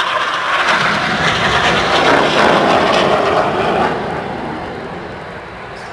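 Red Arrows' BAE Hawk jets passing in formation, the jet noise loudest about two to four seconds in, then fading.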